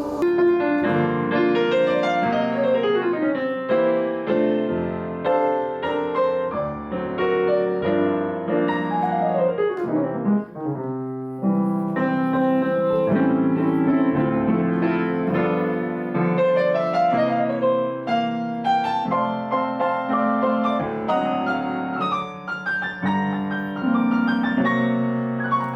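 Piano music, fast flowing runs of notes rising and falling over sustained lower chords.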